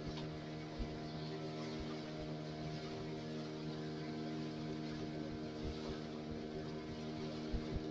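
A boat's engine running at a steady speed, a constant even drone, with a few dull low thumps.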